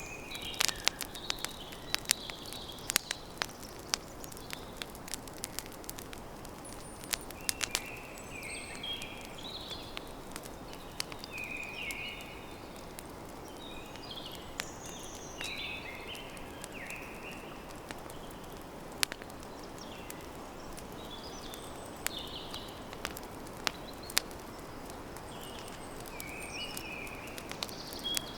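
Campfire crackling with sharp pops, most frequent in the first few seconds, over a steady low hiss. Birds chirp now and then in the background.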